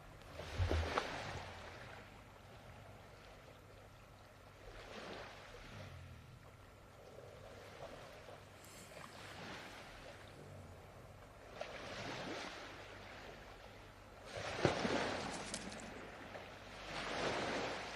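Recorded sea waves, soft, washing in and ebbing every few seconds; the strongest swell comes about three-quarters of the way through.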